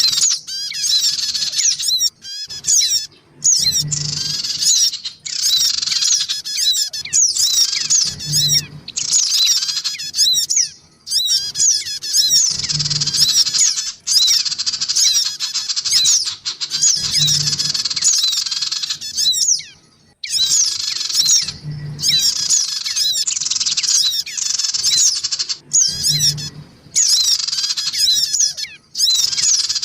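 Spiderhunters (sogok ontong), adults and young, calling noisily in fast chattering phrases a few seconds long with short breaks between them, from a looped bird-lure recording. A soft low thud repeats about every four seconds.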